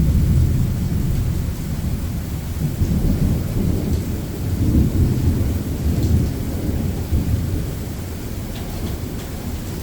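Rolling thunder rumbling low and deep, swelling a few times and fading toward the end, over steady rain.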